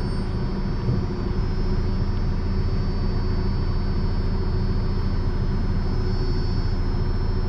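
Steady low rumble of a car's engine, heard from inside the cabin.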